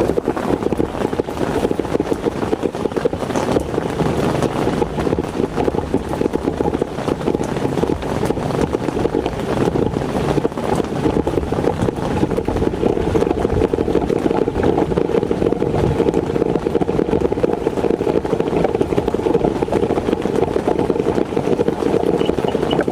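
Heavy rain falling steadily, a dense, unbroken run of small drop hits.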